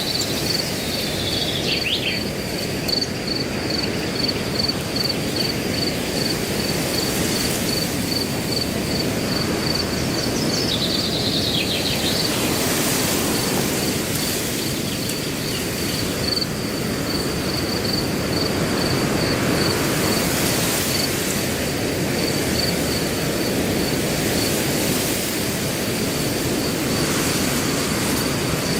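Wind rushing through grass as a steady noise, with a cricket chirping in a fast, even pulse throughout. A bird gives a short falling call twice.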